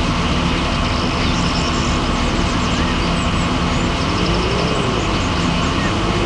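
Heavy machine engine running steadily, a sound effect for the cartoon construction vehicles. A few small high chirps come in the first half, and a tone rises and falls twice near the end.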